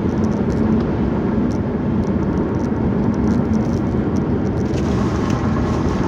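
Steady road and engine noise of a moving car heard from inside the cabin: an even low rumble with a faint steady hum.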